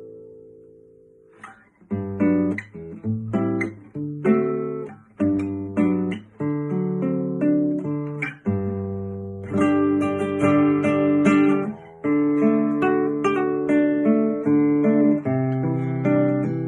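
Yamaha G-255S II nylon-string classical guitar being played: a chord rings and fades away over the first two seconds, then plucked notes and chords follow one after another. Recorded on a phone, so the tone comes across a little harsh.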